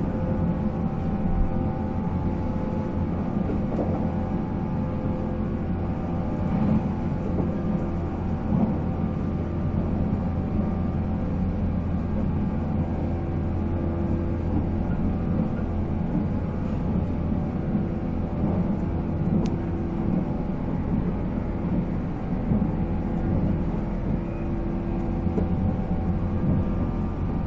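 Onboard running sound of a JNR 485 series electric train at steady speed: the steady whine of its MT54 traction motors over the rumble of wheels on rail.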